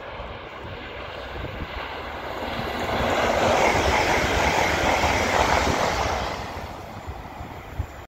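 GWR Class 800 bi-mode Intercity Express Train passing at speed: a rush of wheel and air noise that builds up, peaks for about three seconds in the middle, then fades away near the end.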